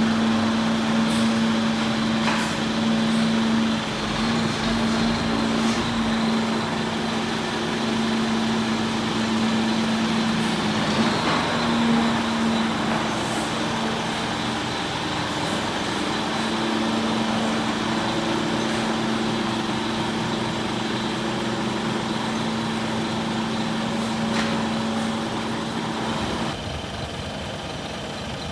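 Scania R480 concrete mixer truck running steadily, a diesel engine sound with a constant hum. It drops somewhat near the end.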